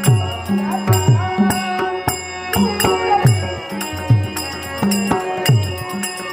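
Dashavatar folk-theatre accompaniment: a harmonium holding steady notes over a hand drum whose low strokes drop in pitch after each hit, with small cymbals clashing in a steady rhythm.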